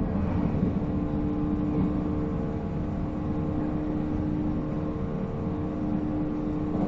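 485-series electric train running at speed: the MT54 traction motors give a steady whine that holds one pitch, over a constant rumble of wheels on rail.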